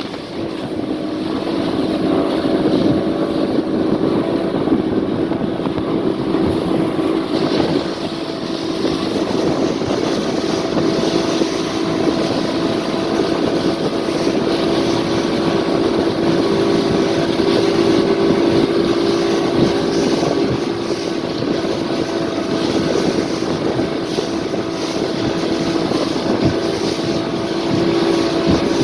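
Motorboat engine running steadily at speed, with wind and water rush. The engine holds an even pitch throughout.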